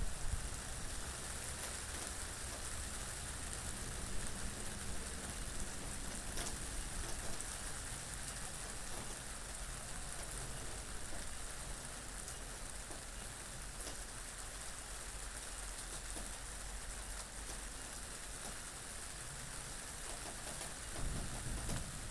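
Steady rain falling in an even hiss, with a low wind rumble underneath and the odd sharper drop click. The low rumble swells briefly near the end.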